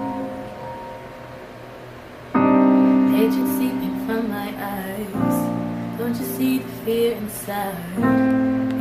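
Music: a slow piano intro of sustained chords. One chord fades out over the first two seconds, a new chord is struck about two and a half seconds in, and a gentle melody plays over it.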